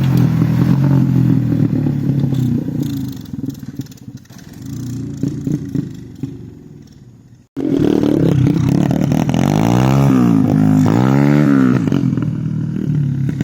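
Thumpstar 125 pit bike's single-cylinder four-stroke engine running, dying away over a few seconds, then cutting off suddenly about seven seconds in. It comes back straight after and revs up and down twice.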